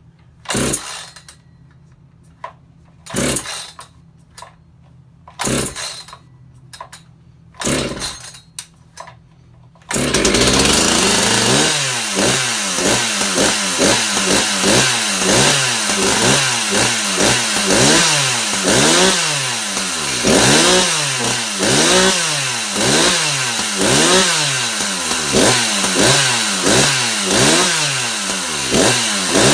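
Echo CS-600P two-stroke chainsaw pull-started in hot weather: four pulls of the starter cord with the engine not catching, then it fires about ten seconds in and runs, its speed rising and falling about once a second.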